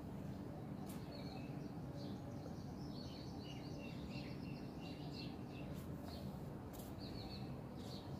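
Small birds chirping in short, repeated twitters, thickest in the middle, over a steady low background hum and a few sharp clicks.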